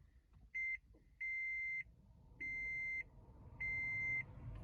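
Toyota Prius in-car warning chime: one short beep, then longer beeps of one steady high tone repeating about every 1.2 seconds.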